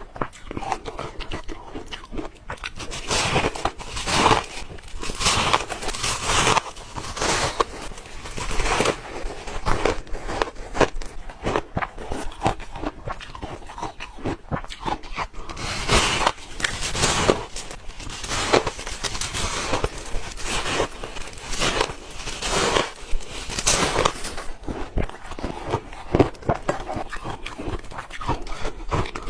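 A person biting and chewing hard ice close to the microphone: dense, irregular crunching and crackling, with a louder crunch every second or two.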